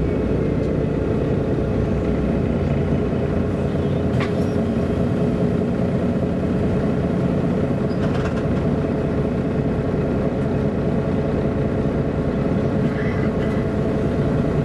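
1999 MAN A23 articulated diesel city bus running steadily, heard from inside: a constant engine and drivetrain drone with a steady whine. A couple of short clicks or rattles come about 4 and 8 seconds in.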